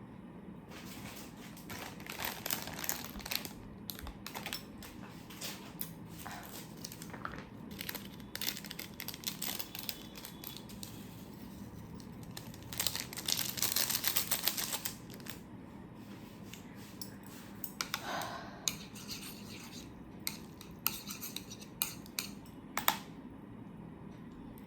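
Cutlery and dishes clinking and tapping in scattered handling sounds, with a dense stretch of rustling or crinkling about halfway through.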